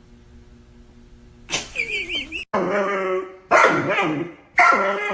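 A dog vocalising: a short, high wavering whine about a second and a half in, then three long, wavering howl-like calls of about a second each.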